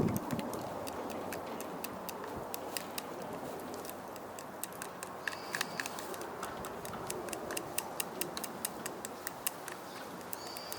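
Wood fire crackling with many small, irregular pops and ticks over a steady low rush.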